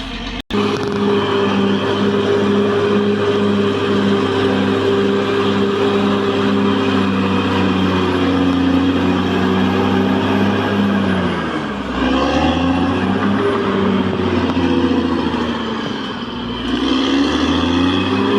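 Caterpillar D6R XL bulldozer's diesel engine running hard and steady; about twelve seconds in its pitch drops sharply as it lugs down, then picks back up, and it sags briefly again near the end.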